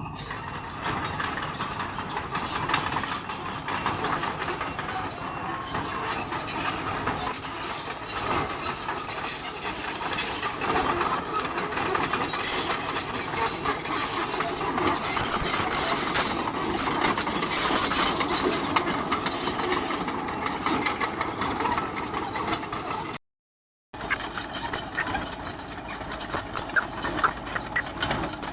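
Bulldozer engine running under load while its blade pushes and levels stone, with dense crunching and scraping of rock and gravel throughout. The sound cuts out for under a second near the end.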